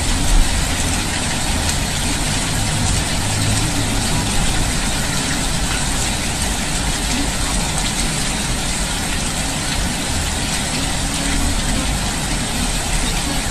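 Heavy rain pouring down with floodwater running across a street: a steady, even hiss with a low rumble underneath.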